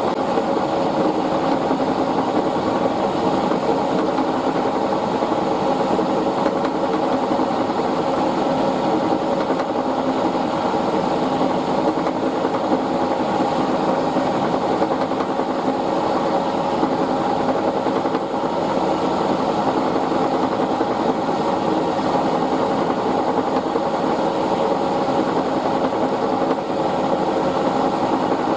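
Milling machine running steadily with a constant hum and whine, cutting a pocket in an aluminium test part.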